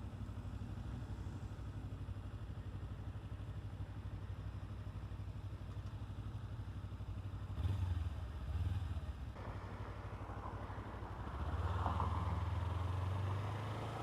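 Kawasaki Ninja 300's parallel-twin engine running steadily at low revs, picking up louder twice: about halfway through, and for a couple of seconds near the end.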